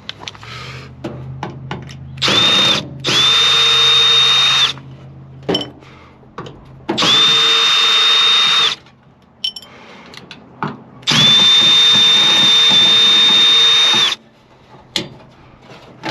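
Power drill spinning in four runs with a steady whine, the longest about three seconds, backing out screws on a microwave oven's casing. Small clicks and clatter fall between the runs.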